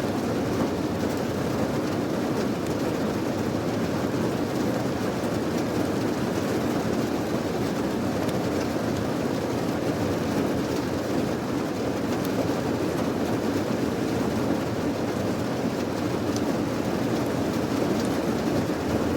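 Steady rain noise, a dense low-pitched rush with faint scattered ticks of drops above it.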